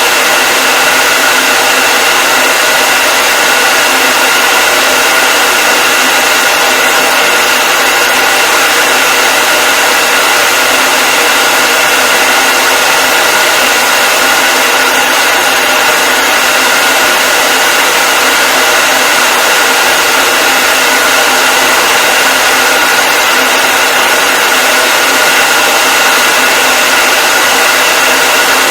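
Hair dryer running continuously at a steady speed: an even, loud rushing hiss with a steady whine in it.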